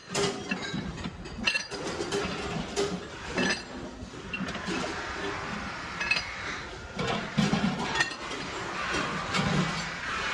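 Aluminium kettle-making workshop: pieces of aluminium clinking and knocking together as they are handled, a string of irregular sharp metallic strikes with brief ringing, over a steady workshop noise.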